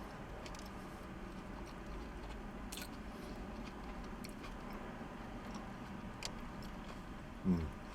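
A man chewing a mouthful of Whopper burger, faint, with a few soft mouth clicks. Near the end a short hummed 'mm' is the loudest sound.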